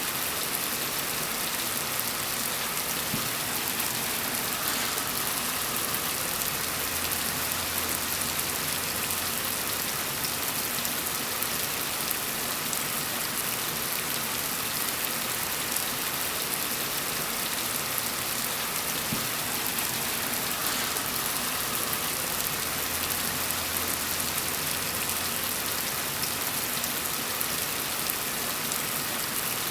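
Steady rain falling, an even hiss of raindrops on surfaces, with a faint low rumble swelling in twice.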